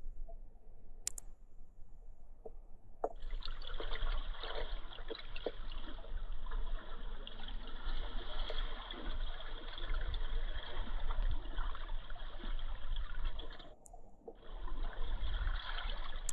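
River water running and gurgling close to the microphone. It starts abruptly about three seconds in, cuts out briefly near the end, then resumes.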